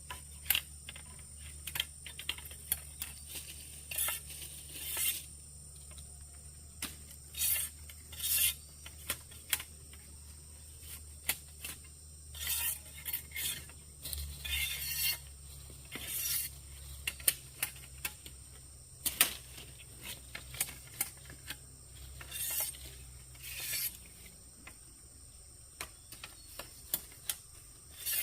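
Irregular clinks, taps and short scraping or rubbing strokes of hand work with tools or utensils, over a steady high-pitched drone and a low hum.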